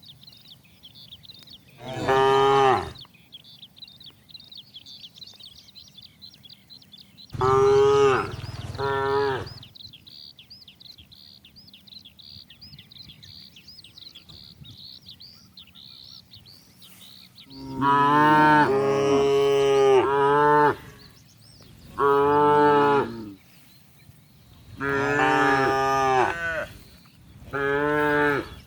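Cattle mooing: a series of loud moos, two or three in the first ten seconds, then coming one after another in the second half. Faint high chirping runs under the first half.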